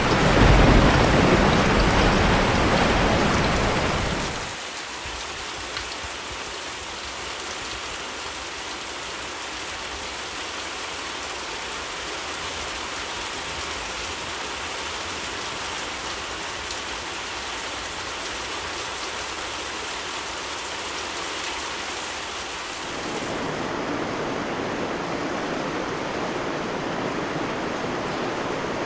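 Rain falling as a steady, dense hiss. The first four seconds are louder, with a deep low rumble under the rain. It then drops suddenly to a lighter, thinner rain sound, which grows fuller again about 23 seconds in.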